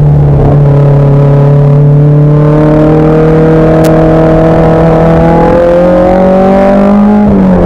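Race car engine pulling hard through a gear, its pitch climbing slowly and steadily, with a quick drop in revs near the end as the driver changes gear.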